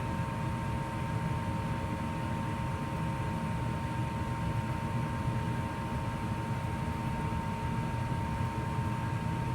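2004 Goodman gas furnace running steadily in heat mode: an even low rumble with a steady high-pitched hum over it.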